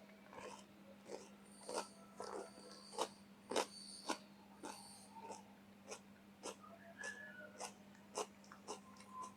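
Faint crunching of raw vegetables being chewed, at about two crisp crunches a second, over a steady low hum.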